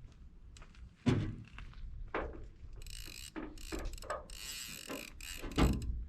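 Fishing reel being cranked in several short spurts, a gritty ratcheting whir, with a heavy knock about a second in and another near the end as the rod is handled.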